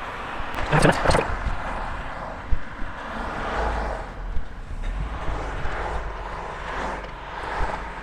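Wind buffeting the microphone of a moving bicycle, with the rush of traffic on the road around it. A short rattle about a second in.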